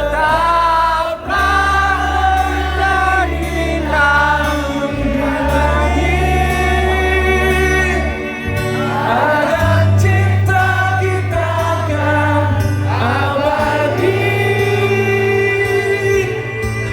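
A choir singing a slow, sentimental Indonesian song in long held notes, over a steady bass accompaniment.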